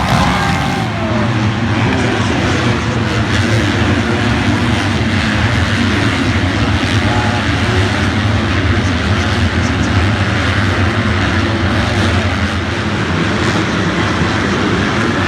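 Motocross bike engines running loud and steady without letting up.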